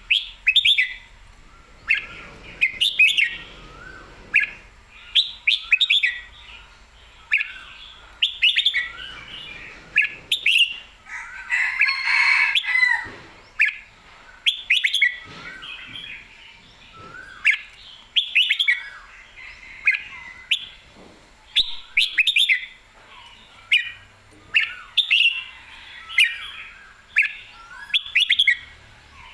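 Red-whiskered bulbul in full, spirited song: short bright whistled phrases repeated every second or two, with a denser run of song about twelve seconds in.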